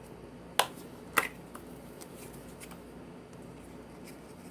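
Two sharp plastic clicks about half a second apart, then a few fainter ticks: the flip-top lid of a garlic powder spice shaker snapping shut, as the lid won't stay open.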